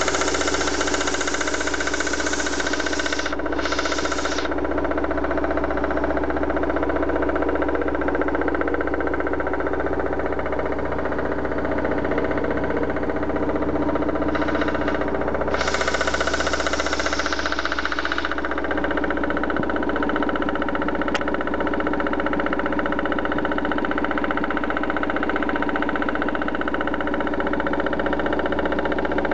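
BMW M43 four-cylinder petrol engine running steadily, carrying a noise that the owner cannot place and suspects lies inside the engine.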